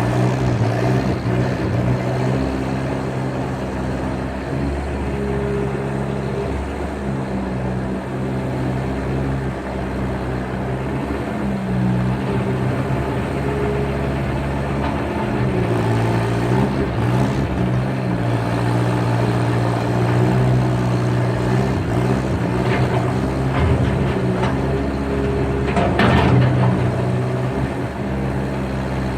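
Skid steer engine running under changing load, its pitch shifting up and down as the machine works. There is a brief loud clatter near the end.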